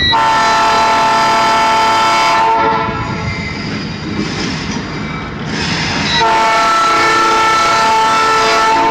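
Locomotive air horn sounding two long blasts, a steady multi-note chord: the first lasts about two and a half seconds, and the second starts about six seconds in and runs on past the end. The train's rumble fills the gap between them.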